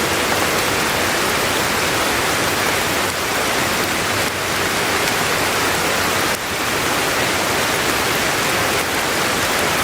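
Steady, even rain sound with no music.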